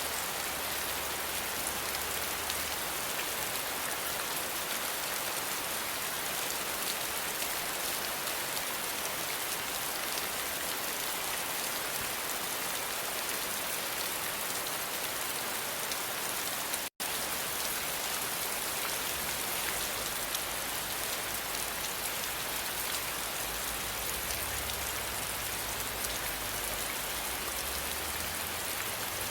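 Steady, heavy rain falling, a dense continuous patter of drops. It cuts out to silence for an instant about halfway through, then carries on unchanged.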